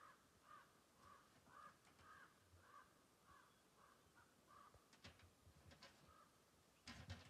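A bird giving a steady run of about ten short calls, roughly two a second, that stops about two-thirds of the way through. Near the end come a few faint clicks, then a louder quick cluster of knocks.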